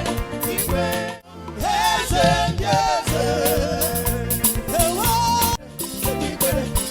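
Live gospel band music with singing and drums; the music drops away for a moment about a second in, and again briefly near the end.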